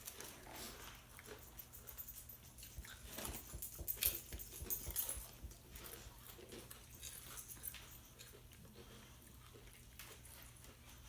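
Chewing and crunching: scattered soft clicks and crackles, busiest about three to five seconds in.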